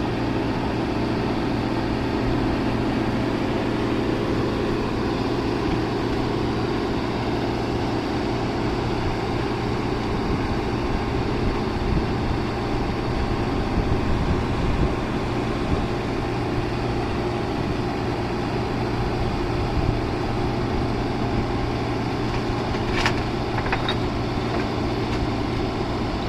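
Tata Hitachi Zaxis 120 excavator's diesel engine running steadily as the machine is unloaded from a truck. There are a couple of short sharp knocks near the end.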